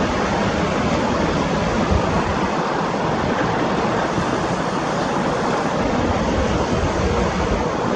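Airbus A321-211 jet engines making a steady, loud roar with no rise or fall.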